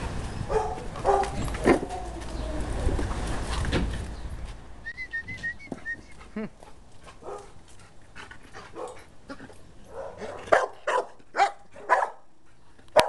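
A dog barking repeatedly in short sharp barks, agitated: a few barks in the first two seconds, then a run of about five barks near the end, with a steady low rumble under the first few seconds.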